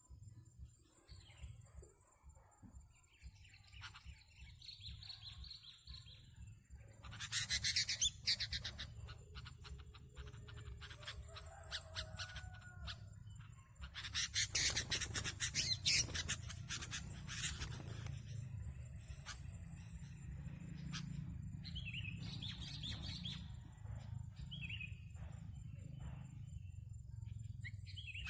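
Sooty-headed bulbuls calling in short bubbly chirps, with two loud bursts of rustling noise, one about 7 s in and a longer one from about 14 to 18 s.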